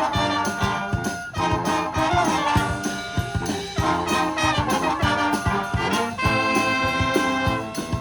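Wind band playing: brass and woodwind chords held over a steady percussion beat.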